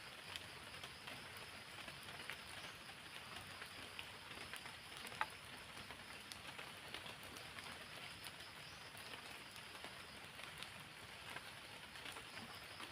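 Light rain falling steadily, an even patter dotted with the sharp ticks of single drops.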